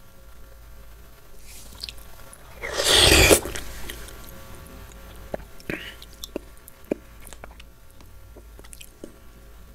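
Close-miked eating of fresh fruit: one loud, juicy bite about three seconds in, then soft, wet chewing with scattered small clicks and smacks.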